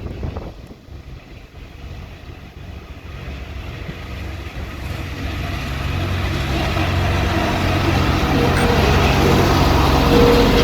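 A motor vehicle's engine drone growing steadily louder over several seconds as it approaches, with a steady higher tone joining near the end.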